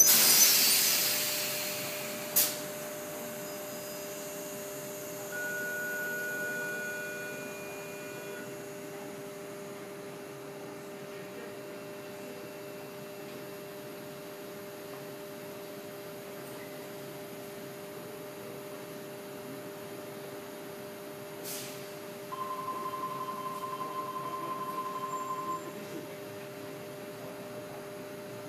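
A CityRail double-deck electric train comes to a stop, its running noise dying away over the first two seconds. The standing train then gives a steady electrical hum of two tones. A single high beep sounds about five seconds in, and a longer beep about 22 seconds in.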